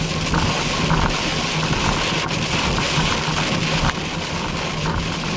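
A car driving at speed, heard from inside the cabin: a steady low engine and road hum under a constant hiss.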